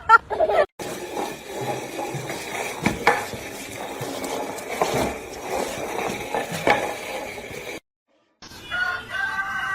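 Scattered clinks and knocks, like dishes or utensils being handled, over a faint steady hum. About 8 s in they cut off, and after a short gap a pitched, wavering animal call begins.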